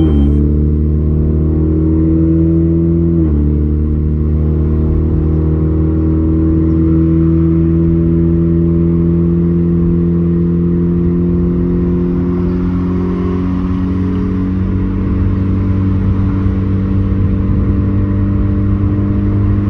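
Turbocharged Honda Civic R18 1.8-litre four-cylinder engine heard from inside the cabin as the car drives off. The engine note drops sharply at a gear change about three seconds in, then climbs slowly and settles into a steady cruise.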